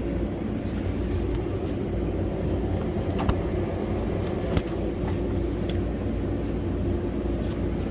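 A machine running steadily with a low drone, with a few sharp clicks and light knocks over it.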